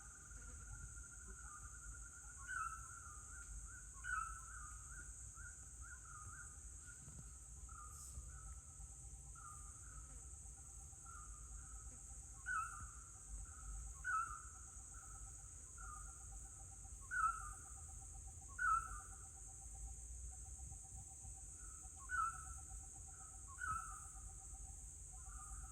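Forest ambience: a bird repeating a short falling call, often twice about a second and a half apart, over a faint steady trill, a constant high-pitched hiss and a low rumble.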